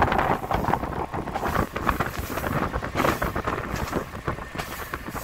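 Diesel railcar running along the line, heard from an open window, with wind gusting over the microphone.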